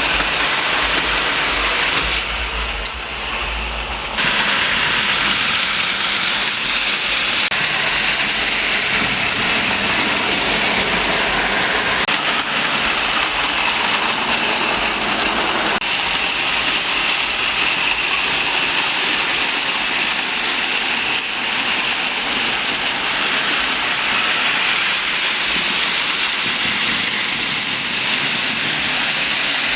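Motorized Trackmaster toy trains running on their track, a steady whirring and rattling of the small motors and wheels with the wagons in tow.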